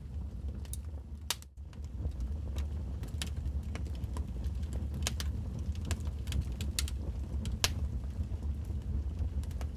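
Wood fire in a fireplace crackling: irregular sharp pops and snaps over a steady low rumble of flames, briefly dropping out about a second and a half in.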